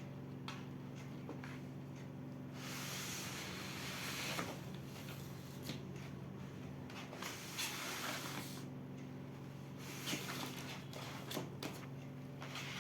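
Hands handling packaging and stationery: several stretches of rustling and a scatter of small clicks and taps, over a steady low hum.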